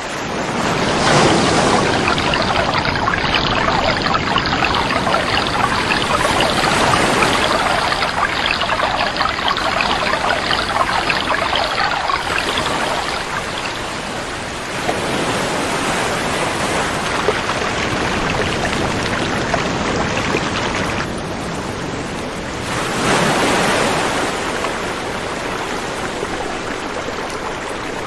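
Flowing river water rushing steadily, swelling louder briefly about a second in and again a few seconds before the end.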